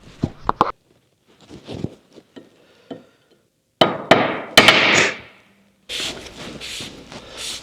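Hammer tapping the metal tabs of a lock plate up against the nut on a steering box's lever shaft stud, locking the nut in place. A few sharp metallic taps in the first second, then a louder cluster of strikes with some ringing about four seconds in.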